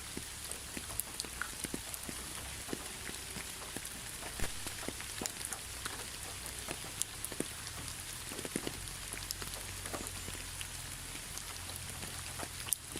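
Steady rain falling, with a constant hiss and many distinct drops ticking sharply on a surface.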